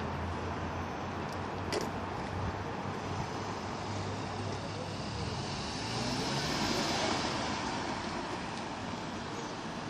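Steady road traffic noise, swelling slightly around six to seven seconds in.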